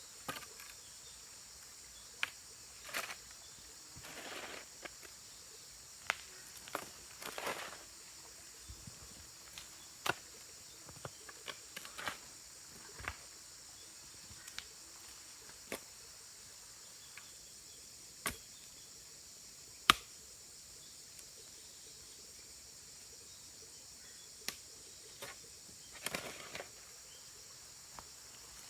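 Scattered sharp knocks and clicks with a few short scrapes, irregularly spaced, the sharpest just before twenty seconds in, over a steady high-pitched insect drone.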